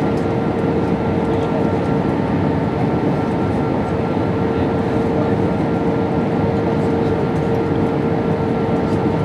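Steady cabin noise of an Airbus A320-232 in flight, heard from a window seat: an even rush of airflow with the IAE V2500 engines' hum and a constant tone over it, unchanging throughout.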